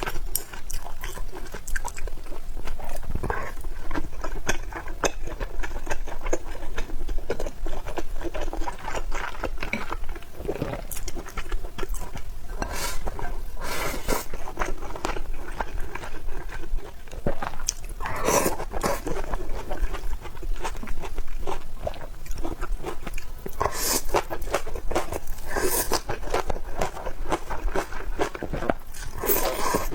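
Close-miked eating: chewing and biting with crunching, a steady patter of small wet clicks and crackles with a few louder bites.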